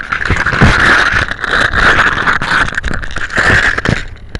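Loud rubbing and scraping on the camera's microphone, crackling with many small knocks, as the camera is handled and shaken; it stops about four seconds in.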